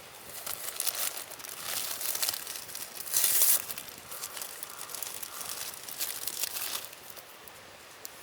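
Crinkling and rustling of a thin, crackly material being handled, in a run of uneven crackles for about seven seconds, loudest about three seconds in.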